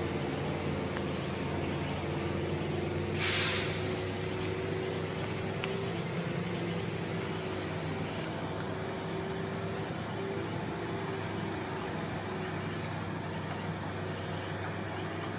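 Heavy diesel truck engine running steadily at a low, even speed, with a short burst of air hiss about three seconds in.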